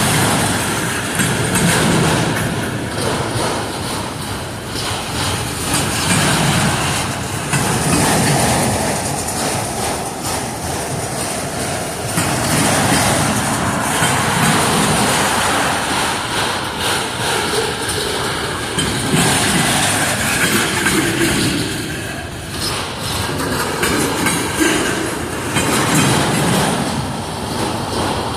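Freight train's cars rolling past: a steady rumble and rattle of steel wheels on rail, with repeated clacking as the wheels cross rail joints.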